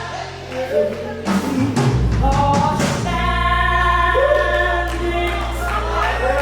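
Worship music: a group of voices singing sustained notes over a steady low keyboard or bass pad, with a brief change of chord about three seconds in.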